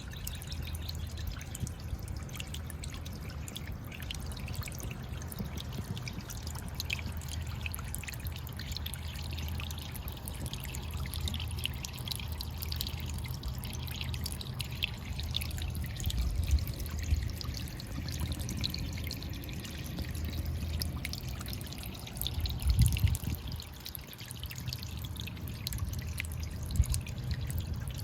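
Small sea waves washing over shore rocks, the water splashing, trickling and dripping back between them. Two louder low thumps come about halfway through and again later.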